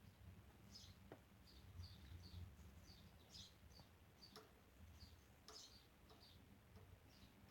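Budgerigars chirping faintly: many short, quick chirps scattered throughout, with a few sharp clicks, over a low steady hum.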